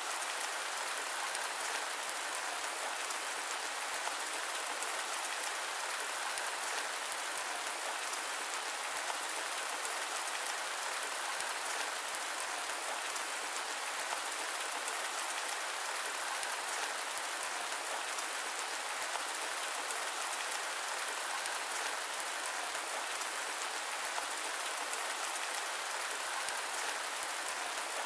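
Steady rain: a dense, even hiss of drops, unchanging, with no thunder.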